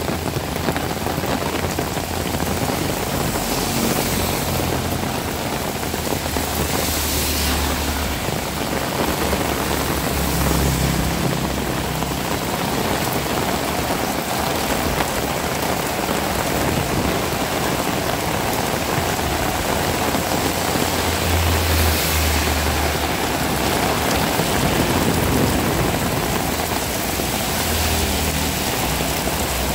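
Heavy rain falling steadily, a dense even hiss of downpour. A low rumble comes and goes several times underneath it.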